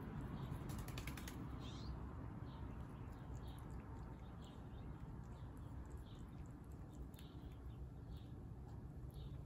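Small birds chirping faintly over and over, short high chirps every half second to a second, over a low steady outdoor rumble. A quick rattle of clicks comes about a second in.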